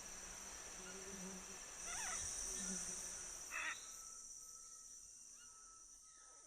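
Rainforest ambience. A steady high-pitched insect buzz swells about two seconds in and fades out a couple of seconds later. Under it, a low hooting call repeats three times, and two brief higher calls sound.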